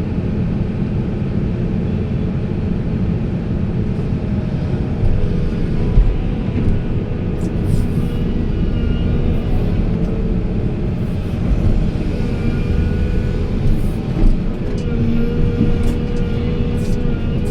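Heavy diesel machinery running: a steady, loud engine rumble, with a whine that comes and goes in the second half and scattered light clicks and knocks.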